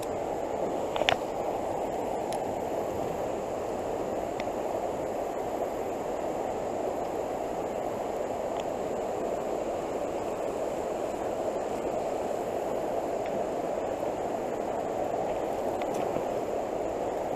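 Steady rushing of fast-flowing floodwater in a creek: an even, unbroken wash of noise.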